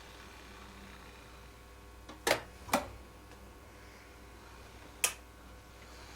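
Three short, sharp clicks: two about half a second apart, and a third over two seconds later, against a quiet background.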